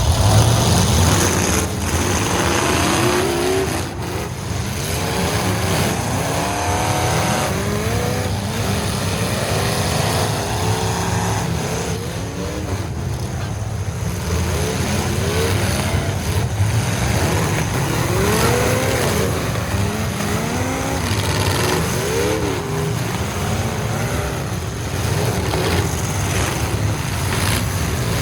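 Several full-size demolition derby truck engines revving at once, their pitch rising and falling over and over.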